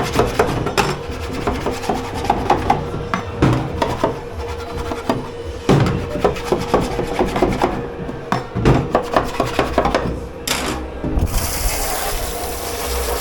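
Dishes and pans being scrubbed and handled at a dish-pit sink: rasping scrubbing strokes among frequent sharp clacks and knocks. About eleven seconds in, a steady hiss of running water starts.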